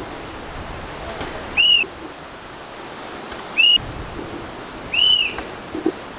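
Wind rushing on the microphone, broken four times by a short, high whistled note that rises and falls.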